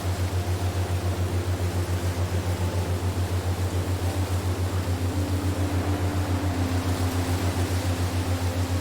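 Relaxation soundscape of steady wind-like hiss over a low hum that pulses evenly about five or six times a second, with faint held tones drifting above it.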